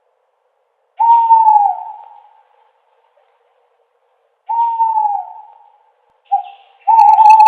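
An owl hooting: long single hoots at one steady pitch that sag slightly as they fade, a few seconds apart, then a short hoot followed at once by a longer one near the end.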